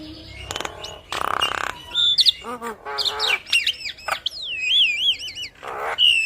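Javan myna (jalak kebo) singing in full voice: a varied string of sliding whistles, quick trilled chirps and harsh raspy squawks. A buzzy rasp comes about a second in, and a run of repeated wavering whistles follows near the end.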